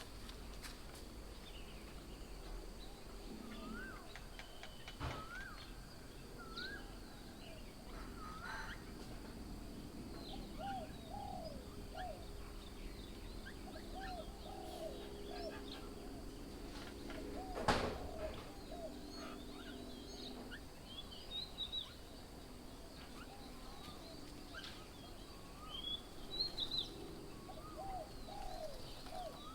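Several wild birds calling, with many short overlapping chirps and whistles throughout. A sharp click about eighteen seconds in is the loudest sound.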